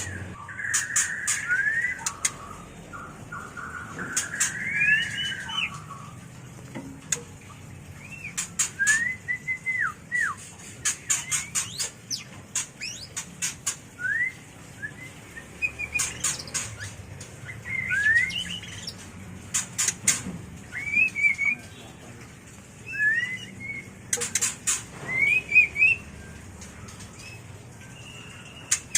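White-rumped shama (murai batu) in mating condition calling: short rising whistled notes repeated every second or two, mixed with clusters of sharp rapid clicks.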